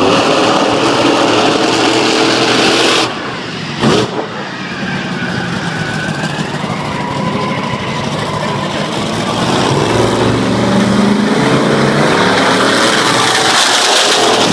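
Monster truck engine revving hard, dropping off about three seconds in, with a sharp bang just before four seconds, then building back up to full revs again.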